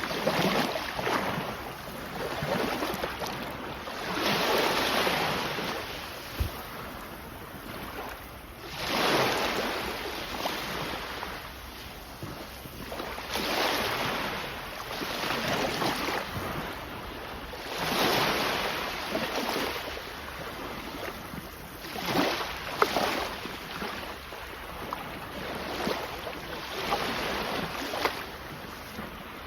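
Sea waves breaking and washing up the shore in a slow rhythm, each swell of surf rising and fading about every four to five seconds.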